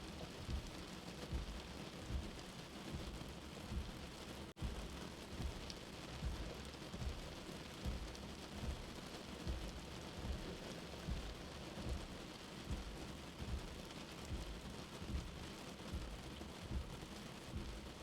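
Steady rain heard from indoors, under a slow, soft heartbeat of low thumps a little under one and a half a second. A split-second gap in the sound about four and a half seconds in.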